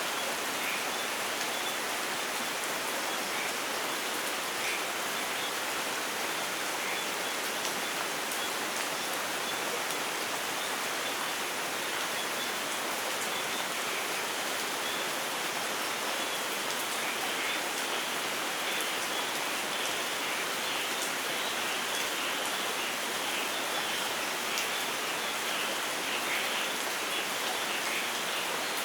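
Light rain falling steadily, with scattered drops pattering on surfaces.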